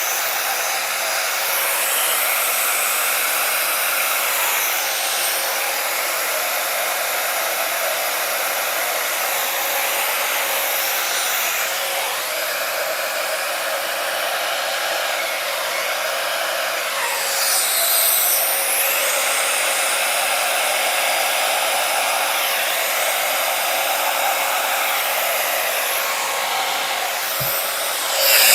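Small blow dryer running steadily with a continuous rush of air and a faint steady hum, blowing wet acrylic paint outward across a canvas. The air noise swells briefly about two-thirds of the way through and again near the end.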